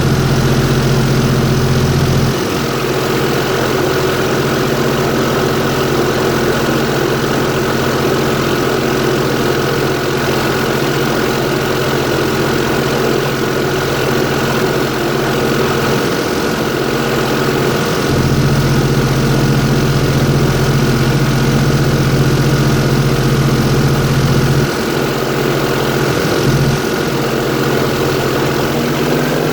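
Airboat engine and propeller running steadily with a loud drone. Its deepest part eases off about two seconds in, comes back around eighteen seconds, and eases again near twenty-five seconds.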